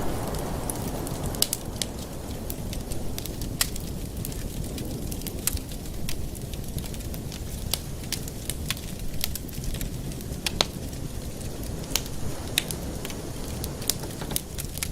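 Wood fire in a fireplace crackling, with frequent sharp, irregular pops and snaps over a steady low rumble of the flames.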